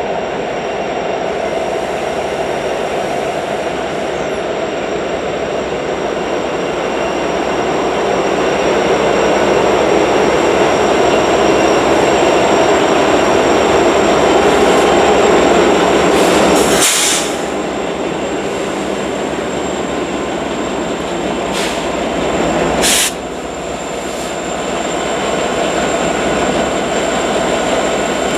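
Union Pacific diesel locomotives pushing a snow plow train out of a snowshed, engines running with rumbling wheel noise and a steady high squeal, growing louder toward the middle. Two sharp knocks come at about 17 and 23 seconds, each followed by a drop in loudness.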